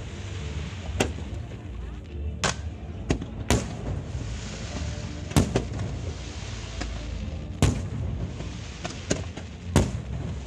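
Aerial fireworks shells bursting, about ten sharp bangs at irregular intervals of half a second to two seconds, over a steady low background noise.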